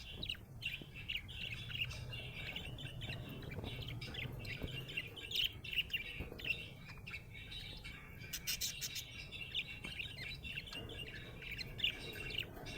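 Budgerigar chirping in a continuous stream of quick, high chirps, the chatter a happy budgie makes.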